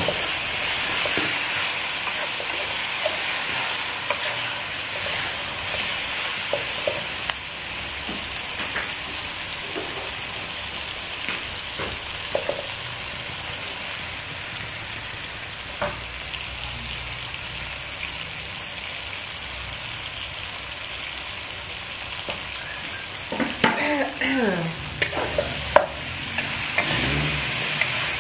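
Chilli spice paste with lemongrass and galangal sizzling as it fries in a wok, stirred with a metal spatula that scrapes and clicks against the pan. Near the end a short burst of louder knocks and a brief voice-like sound cuts in.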